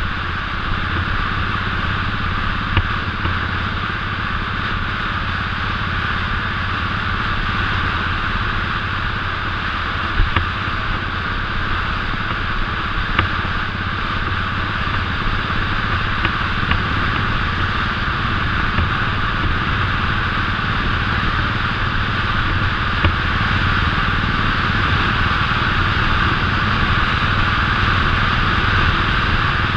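Royal Enfield 500cc single-cylinder motorcycle engine running steadily at cruising speed, under a constant rushing noise, with a few brief knocks.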